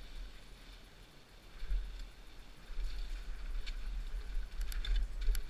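Mountain bike being ridden on a dirt trail, heard through a bike- or body-mounted action camera: a fluctuating low rumble of wind and trail bumps on the microphone, with sharp clicks and rattles near the end.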